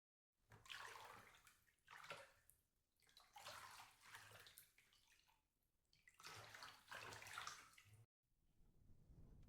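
Faint water sloshing or lapping in four swells, each one or two seconds long. It cuts off suddenly near the end, and a low rumble begins to build.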